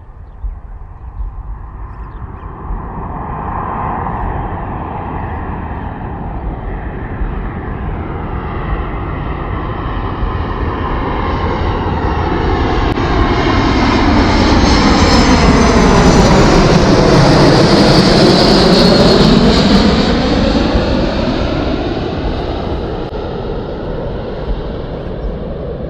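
Airliner flying close past: the engine noise builds for about fifteen seconds, is loudest a little past the middle with a high whine on top, then fades. The tone sweeps as the aircraft goes by.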